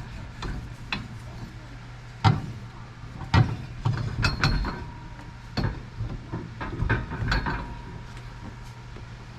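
Metal tools and parts knocking and clinking as a wheel hub and bearing are worked on, with about half a dozen separate sharp knocks over a steady low hum.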